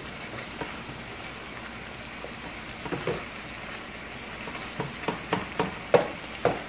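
Ground beef and sofrito sizzling steadily in a frying pan on high heat. A wooden spoon scrapes and knocks against the pan as the meat is stirred, more often near the end.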